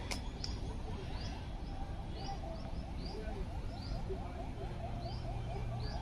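Birds calling: a short high chirp repeated about twice a second, joined in the middle by a faster series of lower notes, over a low steady rumble.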